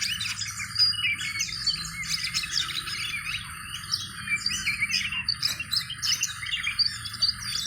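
Oriental magpie-robin singing a fast, unbroken run of short chirps and whistles, over a faint steady low hum.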